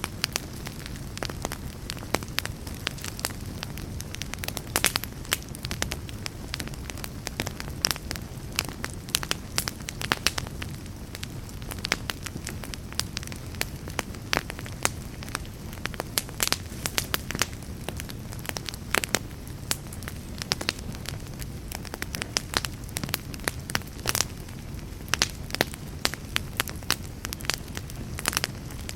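Log fire burning in a fireplace: a steady low rumble of flames with frequent, irregular sharp crackles and pops.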